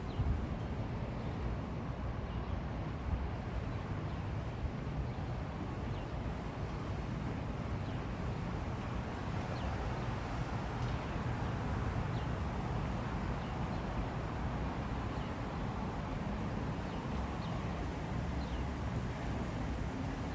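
Steady outdoor rumble of wind and distant traffic, with faint short high chirps now and then.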